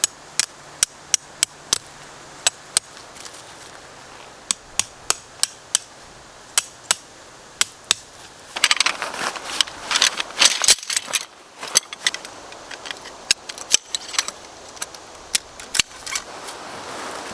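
A series of sharp, separate clicks and snaps, a few tenths of a second apart, with a dense stretch of crackling and rustling handling noise about halfway through.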